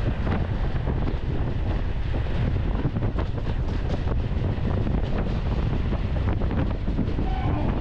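Heavy wind buffeting the microphone from a moving train, over a steady low rumble of train wheels with frequent clatter as loaded BOXN freight wagons pass close by on the next track.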